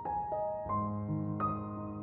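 Background piano music: soft single notes played one after another over a sustained low note.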